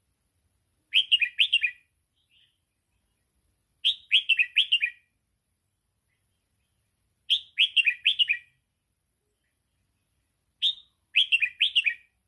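Red-whiskered bulbul singing the 'sai boen' (double) song line used to train young bulbuls: four short phrases, each a quick run of down-slurred whistled notes, about three seconds apart.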